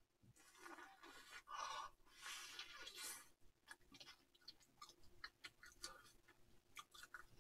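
Faint chewing of a mini hamburger: soft, noisy mouthfuls in the first few seconds, then many small wet mouth clicks.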